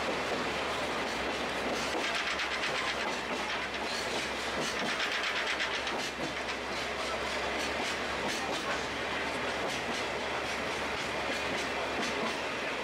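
Sagano Scenic Railway trolley train running along the track: steady running noise from the carriage and wheels, with a quick run of wheel clicks over the rails from about two to six seconds in.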